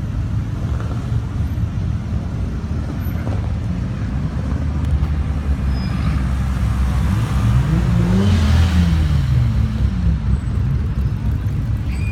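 Car engine rumbling steadily, with one rev that climbs and drops back about eight seconds in.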